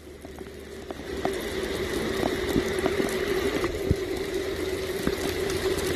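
Heavy rain pouring down, with many drops ticking close by over a steady low hum. It grows louder about a second in.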